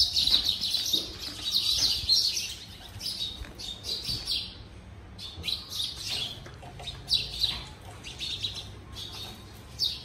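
Small birds chirping: a dense burst of overlapping high chirps for the first couple of seconds, thinning to scattered single chirps.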